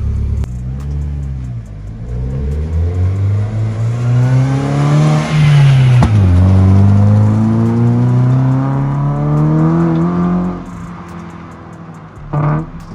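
Toyota 3S-GE Beams four-cylinder engine in a Datsun 620 pickup accelerating hard, rising in pitch through one gear, a sharp click at the shift about six seconds in, then pulling up through the next gear before the sound drops away as the truck moves off.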